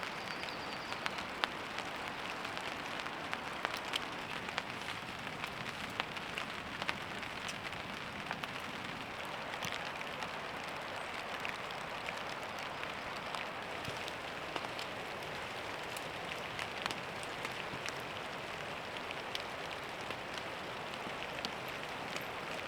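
Steady heavy rain falling, with many sharp individual drop strikes heard through the constant hiss.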